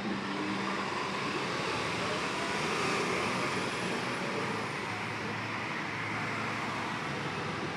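Steady road traffic noise from passing vehicles, swelling slightly about three seconds in.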